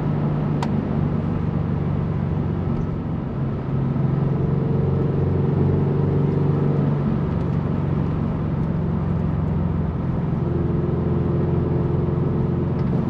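Turbocharged Scion FR-S's flat-four engine running at a steady cruise with road noise, heard from inside the cabin. A single brief click about half a second in.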